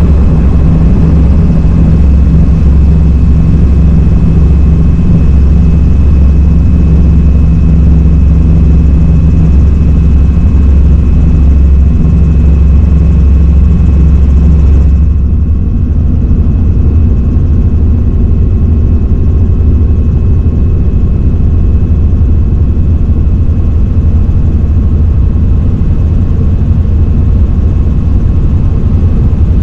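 Helicopter in flight heard from on board: a loud, steady low drone of engine and rotor with a few steady whining tones above it. About halfway through, the higher hiss drops away and the sound becomes slightly quieter and duller.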